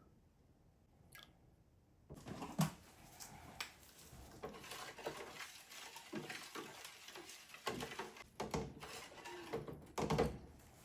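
Glassware and utensils handled on a lab bench: a busy run of clinks, knocks and handling noise starting about two seconds in, with the sharpest knocks soon after and near the end.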